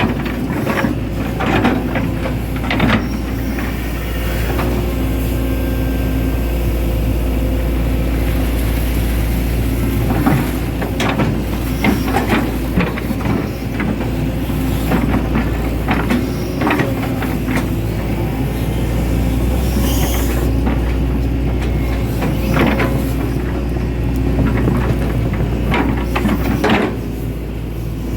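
Hitachi Zaxis 110 excavator's diesel engine running steadily while it works, with a deep constant hum and frequent short knocks and clanks scattered through.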